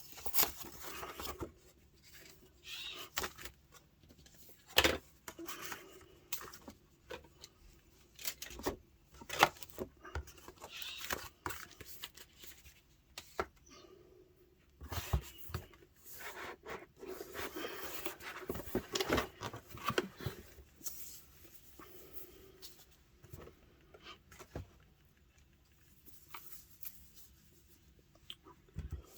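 Packaging being unwrapped by hand: intermittent rustling and tearing, with sharp taps and clicks scattered throughout, busiest about halfway through.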